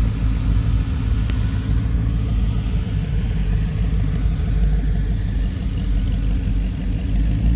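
Classic car engine running at low speed with a steady low rumble.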